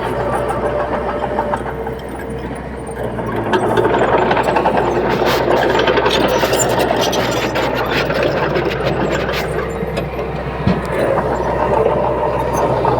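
Heavy diesel earthmoving machinery running steadily, growing louder about three and a half seconds in, with scattered metallic clanks and knocks.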